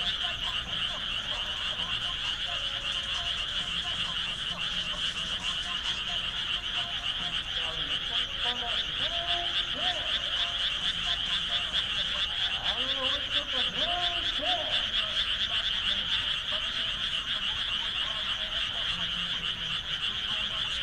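Dense chorus of many frogs calling from flooded rice paddies: a steady wall of rapid, high-pitched pulsed calls, with no break.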